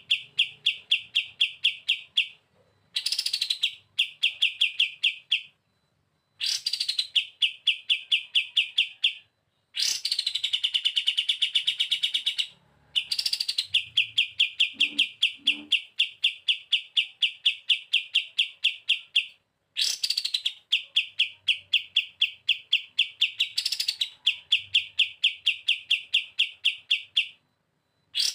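Kapas tembak bulbul singing its rapid 'bren' song: long trains of fast, evenly repeated high notes, about five to six a second, each train opening with a falling note, separated by short pauses.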